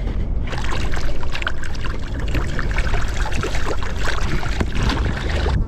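Water splashing and sloshing in many small irregular splashes, over a low wind rumble on the microphone.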